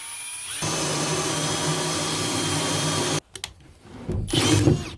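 Power drill with a hole saw spinning up with a rising whine, then cutting into a wooden drawer face with a loud steady grinding. It stops abruptly about three seconds in, followed by a few clicks and another short loud sound near the end. The saw bit is one the builder reckons is pretty much dull.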